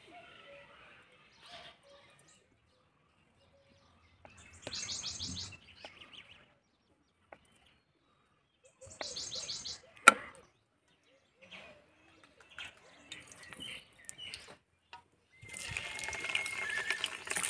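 Birds chirp twice in short quick trills, and a single sharp tap comes about ten seconds in. Near the end, slabs of paneer start sizzling and hissing in hot mustard oil.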